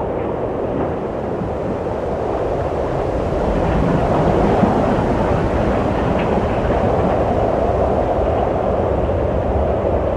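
Wind blowing steadily in a low, rushing noise, swelling a little a few seconds in and easing again.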